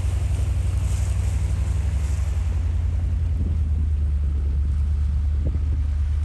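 Off-road 4x4's engine running with a steady low drone, heard from on board while driving slowly along a muddy, water-filled track.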